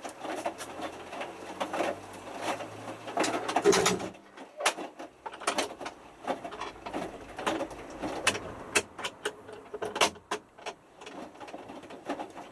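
Hotpoint Futura HF8B593 washing machine tumbling a small load in its main wash, with very little water in the drum. The motor hums for about four seconds and then stops as the drum pauses, while irregular light clicks and knocks from the drum and clothes continue.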